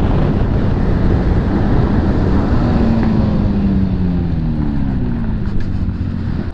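Bajaj Pulsar NS200's single-cylinder engine heard from the saddle under heavy wind and road rush, its low note rising a little and then falling away as the bike slows down.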